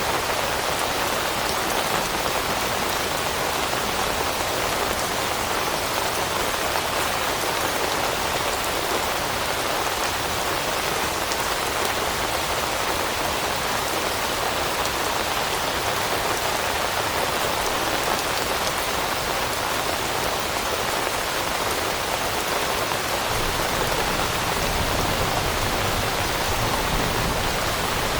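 Steady rain falling on leaves and foliage, an even, unbroken hiss of many drops. A low rumble comes in near the end.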